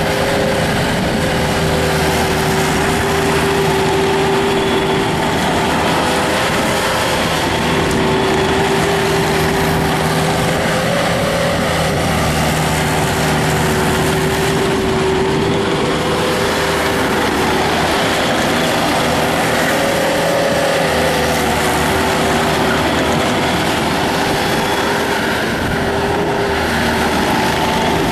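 Bobcat T300 skid steer loader's diesel engine running steadily at working speed, with a steady whine over the drone that dips slightly in pitch now and then.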